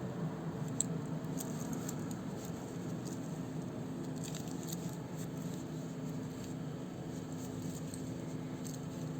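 Light scattered clicks and clinks of a wristwatch and its metal bracelet being handled, thickest in the first few seconds, over a steady low hum.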